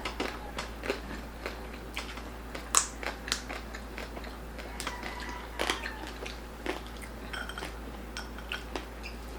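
Close-up crunching and chewing of crispy pork belly crackling: irregular sharp crunches with wetter chewing between them, the loudest crunch about three seconds in.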